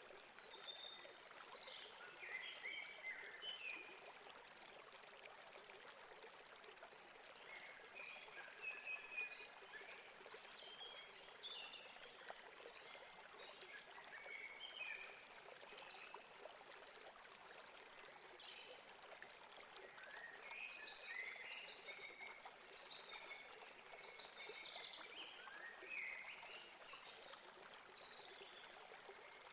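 Faint steady rush of a river flowing over rocks, with birds chirping on and off throughout.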